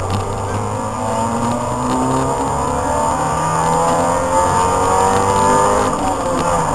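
Opel Astra GSI's 2.0-litre 16-valve four-cylinder engine pulling hard under acceleration, heard from inside the cabin, its pitch rising steadily over several seconds.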